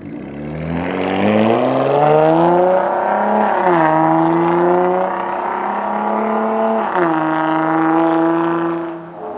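Jeep Gladiator's V6 engine through a Milltek cat-back sport exhaust, pulling hard under acceleration. The pitch climbs, then drops sharply at an upshift about three and a half seconds in, holds, and drops again at a second upshift about seven seconds in.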